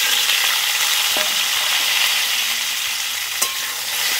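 Cauliflower florets frying in hot mustard oil in a steel wok, sizzling loudly and steadily just after being added, with a couple of light clicks as they are turned with a metal spatula.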